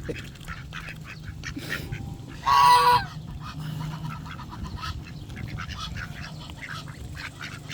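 A goose honks once, loud and about half a second long, about two and a half seconds in, among a flock of waterfowl crowding to be fed. A low steady hum runs underneath.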